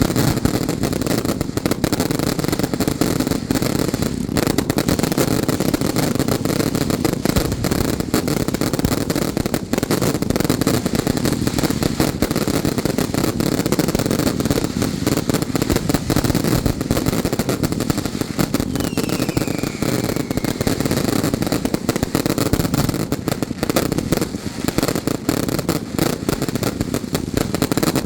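Strings of firecrackers going off nonstop, a dense, rapid crackle and popping that never lets up.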